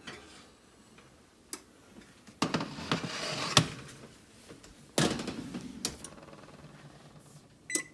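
Kitchen handling sounds: a few sharp clicks and knocks with spells of rustling and scraping, as a pie is taken from the oven and set down. A short high tone sounds just before the end.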